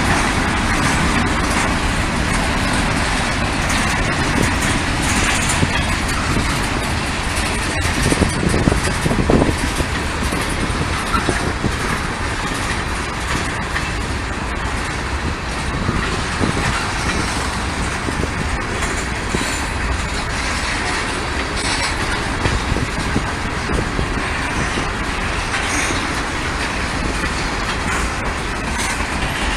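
Freight train rolling past, a steady, loud rumble and clatter of wheels on rail, with a few louder knocks about a third of the way through.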